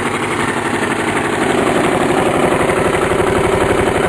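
Briggs & Stratton lawn mower engine running steadily through a scooter muffler fitted as a custom exhaust, getting a little louder about a second and a half in. The exhaust note is not very deep, with the engine's own noise louder than the exhaust.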